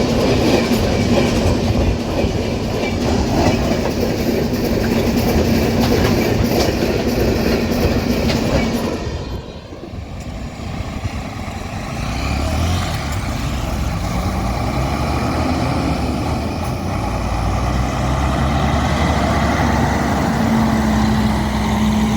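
Empty iron-ore wagons rolling past over the rails with a steady clickety-clack and a held tone, cutting off suddenly about nine seconds in as the end of the train goes by. A lower engine rumble follows and grows.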